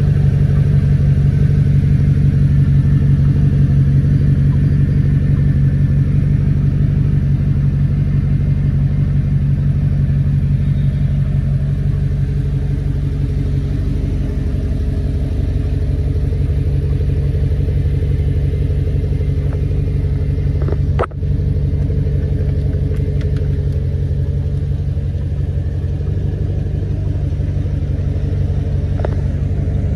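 Audi R8's mid-mounted 4.2-litre V8 idling steadily, a deep even rumble that eases a little in loudness through the first half. There is a momentary break in the sound about two-thirds of the way through.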